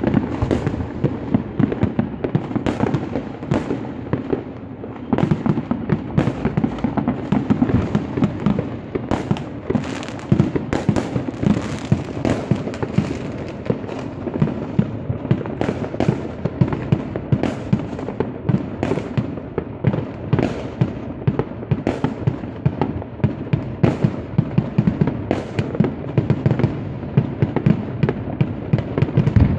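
Many fireworks going off at once: a dense, unbroken stream of bangs and pops with crackling in between, several every second.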